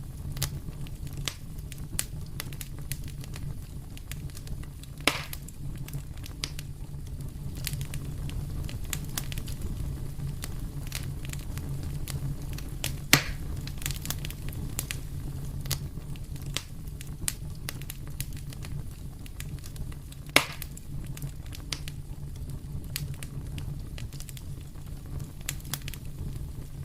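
Wood fire burning in a fireplace, crackling steadily with a low rumble of flames beneath. Three louder pops stand out, about five, thirteen and twenty seconds in.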